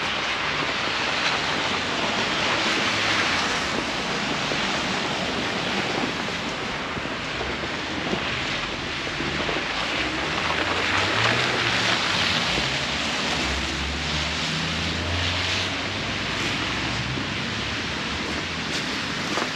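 Snowstorm wind gusting over the microphone: a steady rushing noise that swells and eases every few seconds, with a low rumble underneath.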